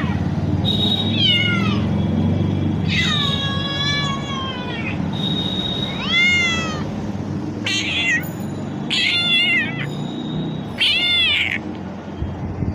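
Domestic cat meowing repeatedly, about seven calls with short gaps, some long and falling in pitch, others rising then falling, over a steady low hum.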